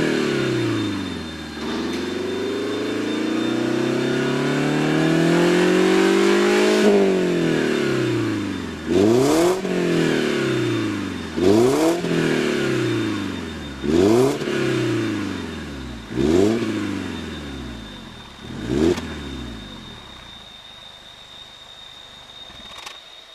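Mazda3 sedan X's 2.0-litre Skyactiv-X four-cylinder through a Kakimoto Class KR aftermarket exhaust, being revved. The revs drop, climb slowly for about five seconds and fall, then five quick throttle blips come a couple of seconds apart, and the engine settles to a steady idle near the end.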